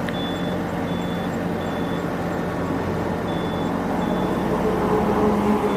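Crane's diesel engine running under load as it pushes a wrecked truck, with a high warning beep repeating about every three-quarters of a second and pausing briefly in the middle. The engine note rises a little near the end.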